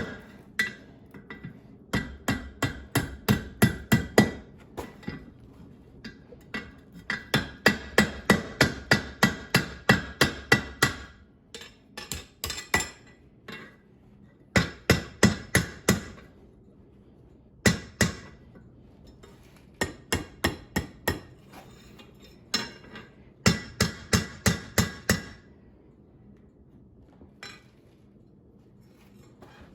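Blacksmith's hammer striking hot steel on an anvil, forging a hook into the end of a wrench handle. It comes in bursts of rapid blows with short pauses between, and each strike rings.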